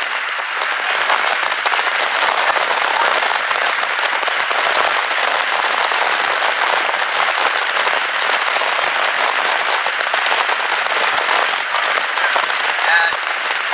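Steady, dense hiss of wind-driven storm rain, with a fine crackle in it and no break.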